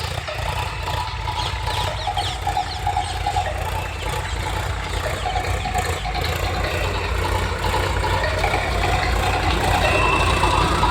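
Swaraj tractor's diesel engine running with a steady low rumble, growing slightly louder toward the end.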